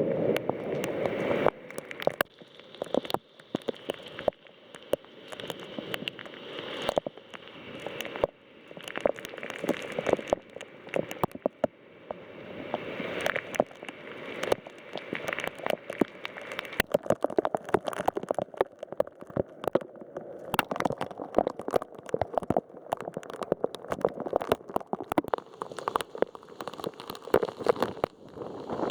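Heavy thunderstorm rain, drops striking a nearby hard surface in a dense, irregular patter of sharp taps.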